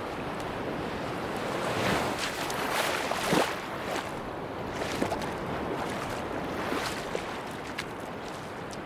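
Sea waves washing onto a beach, a steady rush of surf with one wave swelling and breaking louder a couple of seconds in, followed by small fizzing splashes as the water runs back.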